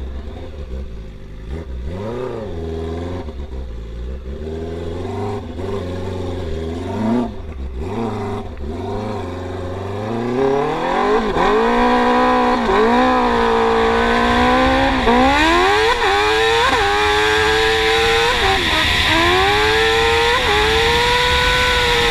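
Yamaha R6 inline-four engine in a YFZ450 quad being ridden, revving up and down at low speed, then pulling harder from about ten seconds in, its revs climbing and dropping sharply at each gear change.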